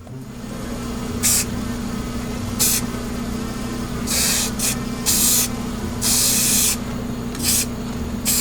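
Aerosol spray paint can sprayed in about seven short hissing bursts, the longest around half a second, over a steady low hum.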